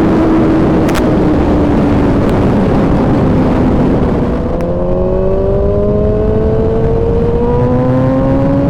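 Kawasaki ZX-10R's inline-four engine running under way, with heavy wind rush. The engine note sags slightly for about four seconds, dips briefly, then climbs steadily as the revs rise.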